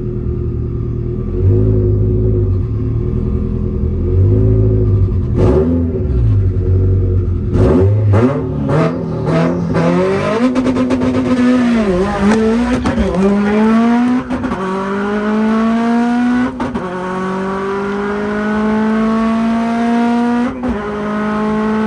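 A car engine idles low with a few blips, then, with several sharp cracks, launches and accelerates hard. Its pitch climbs through each gear and drops at each upshift, about five shifts in all, as on a drag-strip pass.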